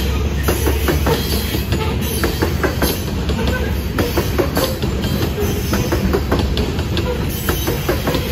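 Freight train rolling past close by: a steady deep rumble with rapid, irregular clicking of wheels over the rails.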